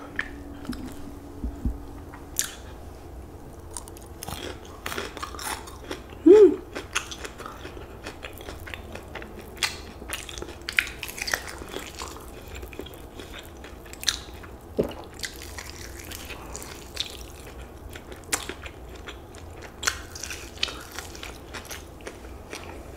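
Close-miked biting and chewing of crispy fried chicken wings, with irregular sharp crunches of the breading.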